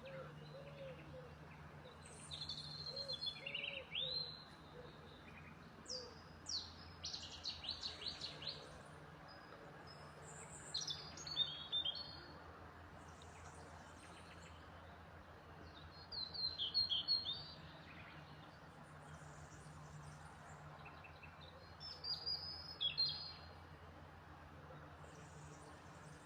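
Small songbirds singing in short bouts of chirps and fast trills, about five phrases a few seconds apart, over a steady low hum.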